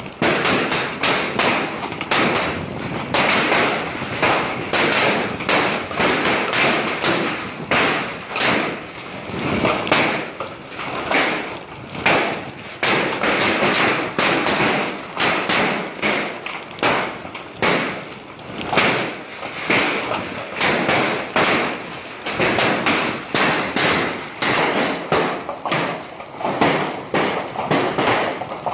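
Hailstones pelting down, a dense, continuous clatter of hard taps and thuds over a hiss of falling rain, the loudness swelling and easing every second or two.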